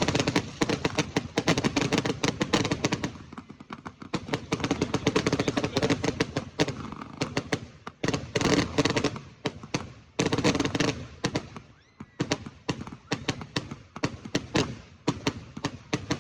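Fireworks going off: a rapid, dense run of bangs and crackles, many a second, easing briefly about four seconds in and again about twelve seconds in.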